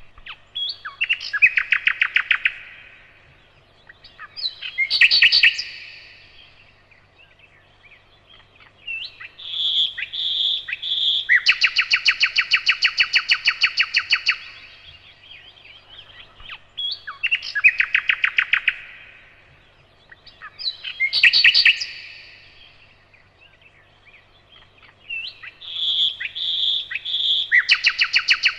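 Nightingale singing in short phrases with brief pauses between them, mixing sharp whistled notes with fast rattling trills. Twice a phrase opens with three loud notes and runs into a rapid trill lasting a few seconds.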